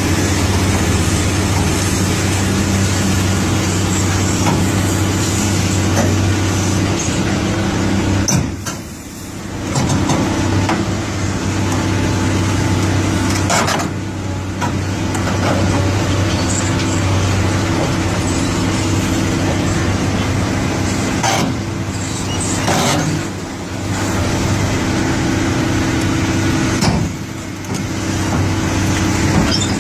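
Diesel engine of a Cat excavator running steadily under load as it climbs onto a lowboy trailer, dropping back briefly about nine seconds in and again a few more times.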